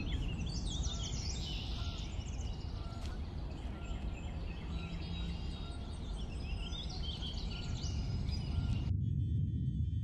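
Birds chirping and twittering in quick repeated calls over a steady low rumble. The birdsong cuts off abruptly near the end.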